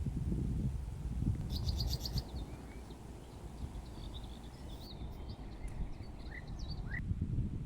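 Small birds chirping: a rapid high trill about a second and a half in, then scattered short chirps and quick rising calls. A low rumbling noise runs underneath.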